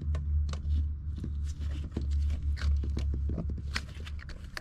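Scattered light clicks and knocks of fuel-pump parts and connectors being handled, over a steady low hum.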